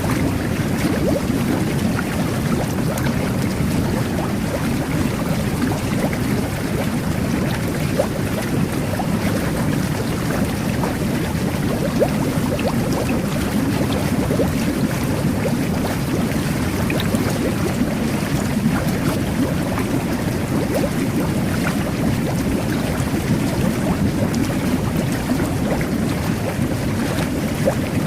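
Jet bath churning the bathwater: a steady, deep rush of bubbling water with small pops of bursting bubbles.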